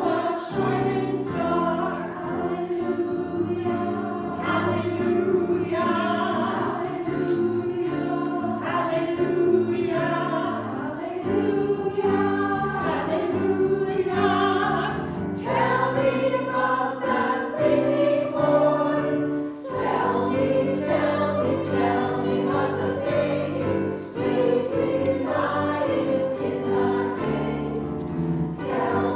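Women's choir of sopranos and altos singing in parts with piano accompaniment.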